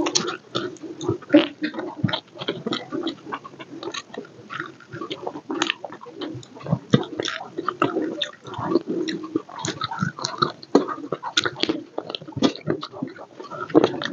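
Close-miked chewing and lip-smacking of rice and chicken curry eaten by hand, with fingers mixing rice on a steel plate, a rapid irregular run of small clicks and smacks.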